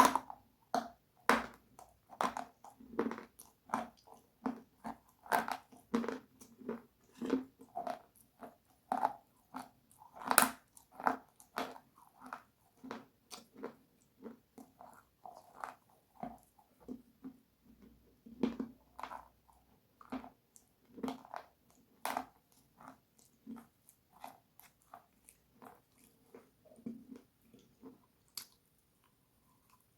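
Close-miked crunchy eating: a loud bite, then repeated crisp crunches and chewing about once or twice a second. The crunching is densest and loudest in the first half and thins out to softer chewing near the end.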